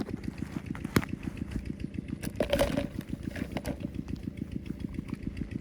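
A small engine idling with an even, rapid chug, and a sharp click about a second in.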